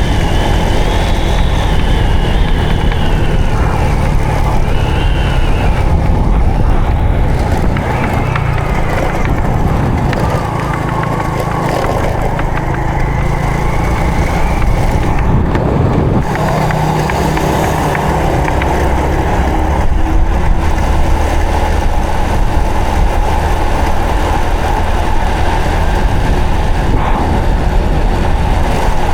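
Honda Supra X 125 FI motorcycle's single-cylinder four-stroke engine running under way, with a heavy steady low rumble. Its pitch rises and falls several times in the first half, then holds steady.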